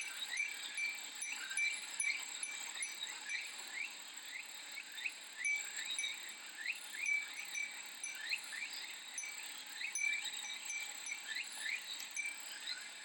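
Japanese summer ambience: cicadas with a steady high pulsing drone, and a furin (Japanese wind chime) ringing, with many short rising chirps repeating throughout.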